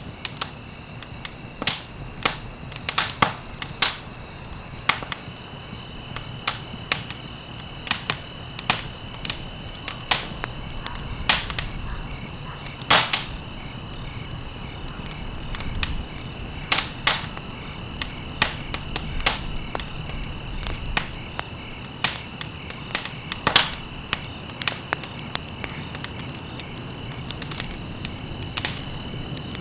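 Wood fire crackling, with irregular sharp snaps and pops, a few louder ones, over a low steady hiss. A steady high-pitched tone runs underneath.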